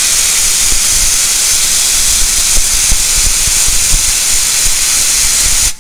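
Steam locomotive venting steam close by: a loud, steady hiss with a few low thuds underneath, cutting off abruptly near the end.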